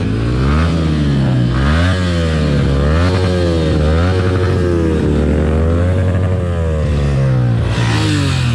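Royal Enfield Interceptor 650 parallel-twin engine, running with its exhaust silencers removed, being revved repeatedly while standing. The pitch rises and falls about six times in quick blips.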